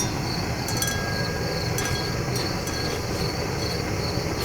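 Propane weed-burner torch firing a raku kiln: a steady rushing noise at an even level, with a high, pulsing insect trill above it and a few faint clinks.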